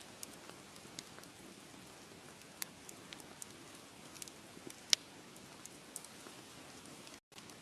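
Wood fire crackling: irregular sharp pops and snaps over a low steady hiss, the loudest pop about five seconds in. The sound cuts out completely for a split second near the end.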